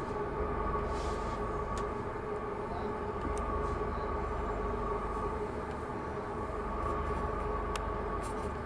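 Steady mechanical hum of a passenger train standing still at a station, heard inside the carriage, with a few faint clicks.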